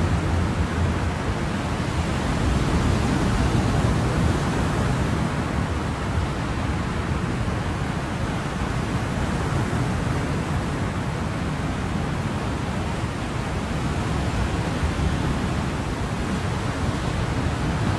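Ocean waves breaking on a shore in a steady, continuous wash of surf, swelling slightly a few seconds in.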